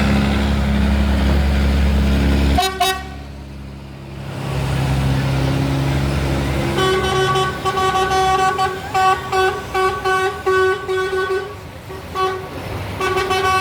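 Diesel tractor engine running loud and close for the first few seconds, then cutting away; from about halfway a vehicle horn sounds in a string of short toots and longer blasts.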